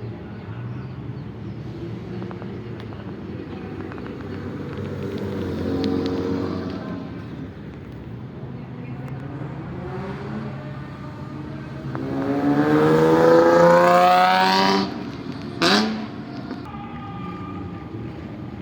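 A car engine idling, with a brief rev about six seconds in. Then it is revved hard, climbing steeply for about three seconds before cutting off, followed by one quick throttle blip.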